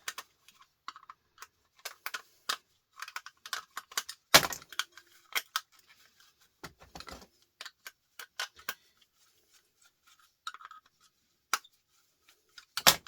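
Scattered clicks, taps and light clattering of hard plastic and small metal parts as an old three-pin electrical plug is taken apart by hand, with a sharp knock about four seconds in and another near the end.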